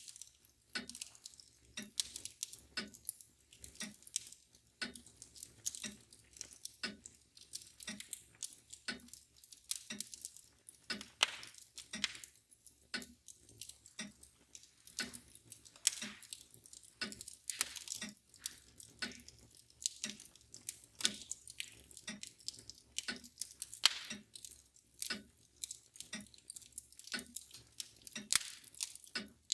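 Wood fire crackling with irregular sharp pops, over the steady even ticking of a mantel clock.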